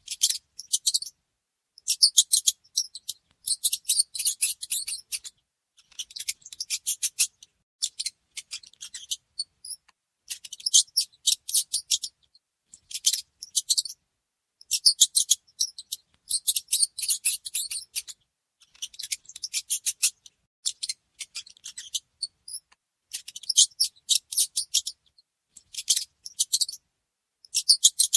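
Mice squeaking: rapid runs of high, thin squeaks in bursts of about a second, broken by short silences.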